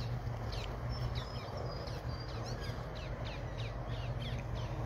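Birds calling with repeated short, falling chirps, a few each second, over a low steady hum.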